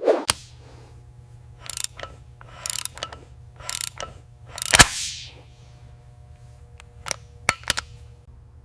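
Mechanical clicks and knocks from tool or parts work, irregularly spaced, with one sharp knock about five seconds in, over a steady low hum.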